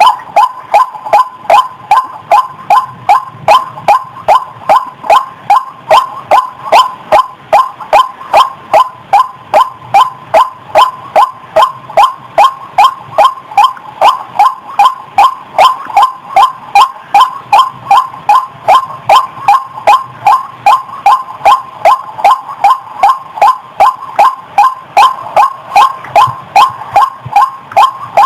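White-breasted waterhen calling: a long, even series of short, harsh "kwak" notes at about two a second, all at the same pitch.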